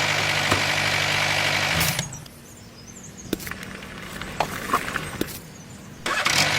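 A mini tractor's small motor running steadily, then stopping about two seconds in. A quieter stretch of scattered ticks and clicks follows, and the motor runs again near the end.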